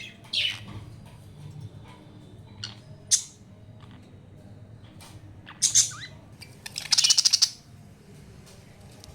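Budgerigars calling: a few short, high chirps spaced a couple of seconds apart, then a loud rapid rattling squawk about seven seconds in.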